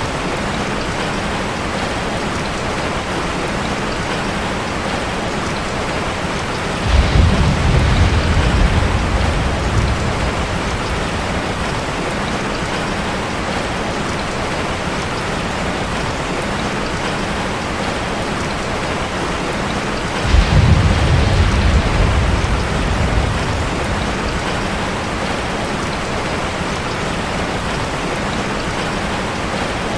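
Steady rain drumming on a metal roof, with two low rolls of thunder: one about seven seconds in and another about twenty seconds in, each rumbling for a few seconds before fading.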